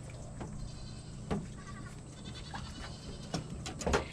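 A goat bleating faintly in the background, a few wavering calls, with scattered sharp clicks and knocks from knife work on a catfish.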